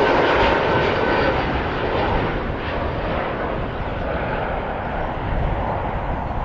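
Jet airliner engines close by: a loud, steady rush of noise with a thin whine on top, slowly easing off.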